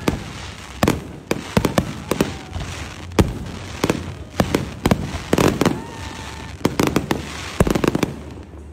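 Aerial fireworks bursting in quick, irregular succession: many sharp bangs, about two a second, with crackling from glittering star shells between them.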